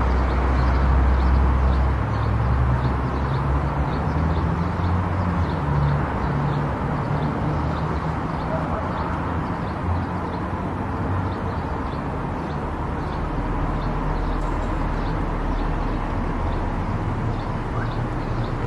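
A car running along an expressway: steady road and engine rumble, with a faint regular ticking about twice a second.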